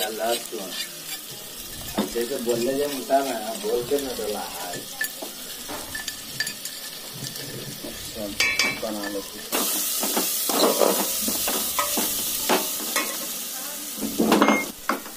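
Onion and spice masala sizzling as it fries in mustard oil in an aluminium pot, just after crushed garlic and ginger have gone in. A steel spoon stirs it and scrapes the pot in small clicks. The hiss gets louder about two-thirds of the way through.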